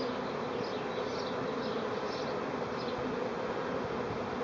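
A swarm of honey bees buzzing steadily as it moves into an empty hive, an even drone at a constant level. Faint high chirps recur about twice a second.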